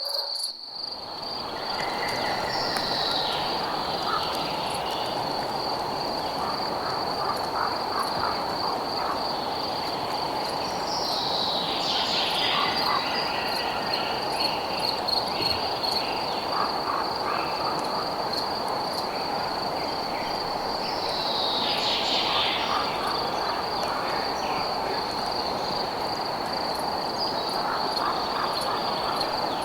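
Night nature ambience: a steady high-pitched insect trill over a continuous low hiss, with a falling call that recurs about every nine to ten seconds.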